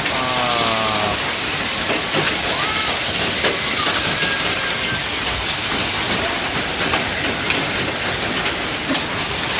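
Hail and rain pelting down steadily: a dense hiss full of sharp little ticks as stones strike hard surfaces. A brief pitched call is heard just after the start.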